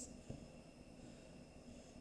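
Near silence: faint room tone with light hiss, a brief soft tick about a third of a second in.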